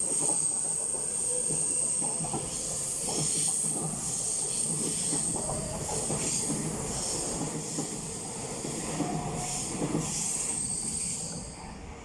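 Taiwan Railway EMU900 electric commuter train pulling out of the station, with a steady high whine over rail and wheel noise and scattered clacks. The sound falls away near the end as the train leaves.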